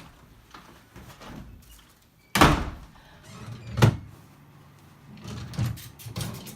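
A door being handled: a heavy thud about two seconds in, a second sharp knock a second and a half later, then softer knocks and rustling.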